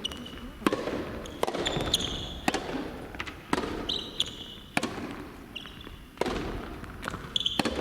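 Soft tennis rally: a rubber soft-tennis ball popping off rackets and bouncing on the court about once a second, each hit echoing, with short high-pitched shoe squeaks between the hits.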